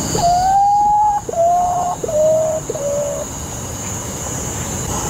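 Potoo calling: a series of four mournful whistled notes, the first the longest and rising slightly, each following note shorter and lower in pitch, over a steady high-pitched background tone.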